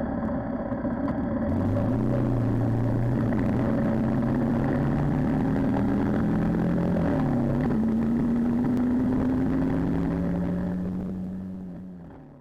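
Motorcycle engine running while riding at road speed, with wind rushing over the microphone; the engine note climbs about 2 s in and shifts again around the middle as the speed changes. The sound fades out near the end.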